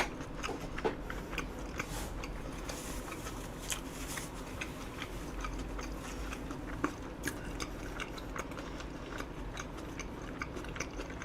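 Close-miked chewing of eel over rice, with scattered small clicks.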